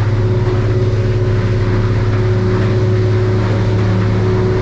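Yamaha F300 outboard running steadily: a constant low drone with a steady higher hum over it.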